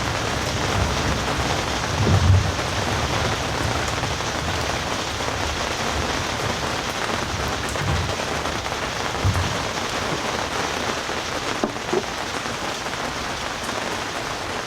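Steady rain falling, a dense even hiss, with a few short low thumps about two, eight and nine seconds in.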